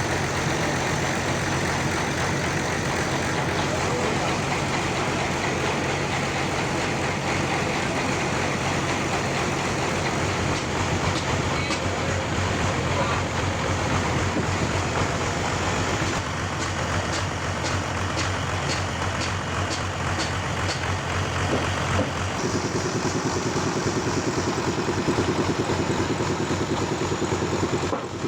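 Sawmill running while sawing trembesi (rain tree) timber: a steady engine-driven machine drone that shifts in tone a couple of times, with a rapid high ticking for several seconds past the middle.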